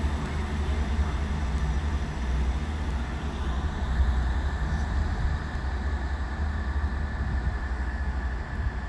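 Class 158 diesel multiple unit running with a steady low engine rumble, a faint high tone coming in near the end.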